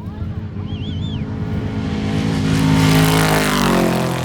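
Off-road race vehicle passing close at speed: its engine gets louder to a peak about three seconds in, then drops in pitch as it goes by. A few faint high chirps in the first second.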